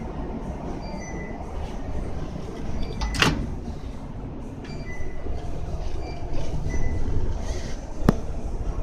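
Shop background noise: a steady low rumble with faint short beeps, and two sharp knocks, one about three seconds in and one near the end.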